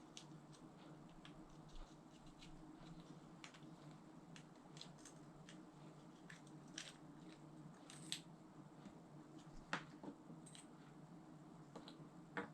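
Faint, irregular small clicks and ticks of a baitcasting reel's small parts being handled during cleaning, over a low steady hum, with a few sharper clicks in the second half.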